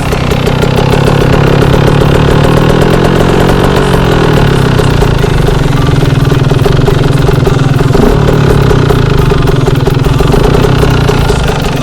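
2015 Husqvarna TE 125's single-cylinder two-stroke engine idling steadily through an FMF exhaust.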